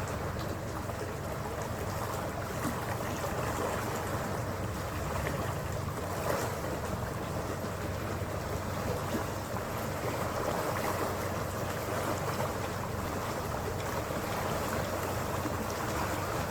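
Passenger ferry under way: a steady engine drone under the rush of water along the hull, with wind buffeting the microphone.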